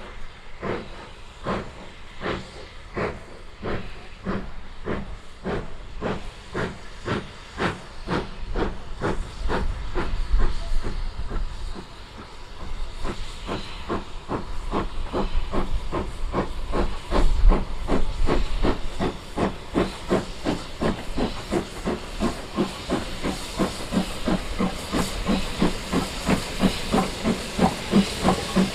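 Steam locomotive exhaust beats over a hiss of steam, the chuffs quickening steadily from about two a second to four or five a second as the engine gathers speed.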